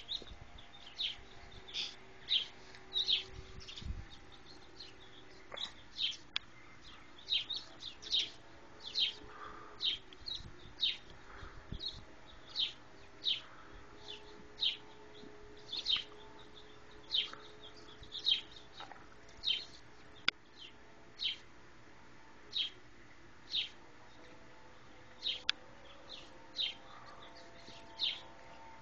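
A songbird chirping over and over: short, high, falling chirps at about one a second, sometimes in quick pairs.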